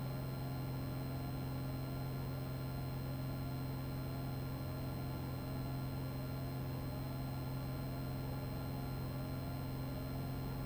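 Steady cabin drone of a Piper PA-28 light aircraft's piston engine and propeller during the climb after takeoff. A constant low hum runs under steady higher tones, with a faint chirp that rises about twice a second.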